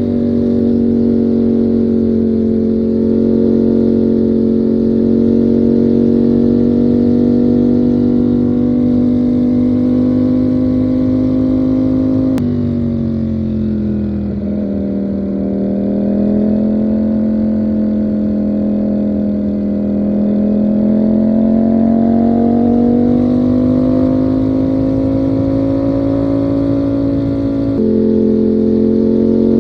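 Ducati Panigale V4 motorcycle's V4 engine running at a steady cruising speed. Its pitch drops sharply at a gear change about twelve seconds in, then rises slowly as the bike picks up speed, with another sudden shift in pitch near the end.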